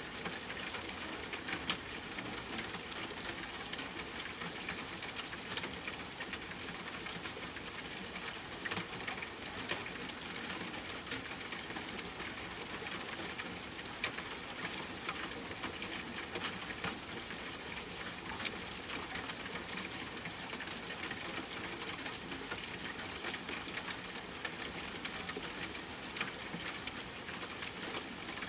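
Steady rain falling, with a dense scatter of sharp drop ticks over an even hiss.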